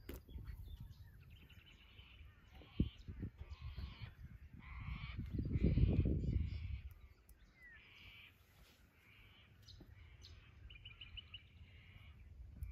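Birds outdoors giving a series of short, harsh calls, one of them a quick rattling run near the end. A low rumble swells and fades in the middle.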